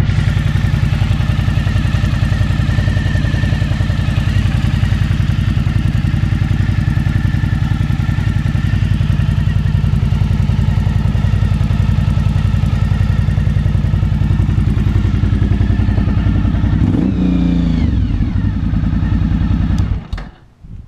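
Suzuki V-Strom 1000's 90-degree V-twin engine running steadily through White Brothers aftermarket exhaust pipes; the pitch drops about three-quarters of the way through, and the engine stops suddenly near the end.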